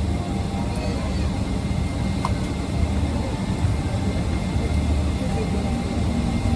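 Steady low rumble of an airliner cabin, the engine and air-conditioning noise heard from a passenger seat, with one short click about two seconds in.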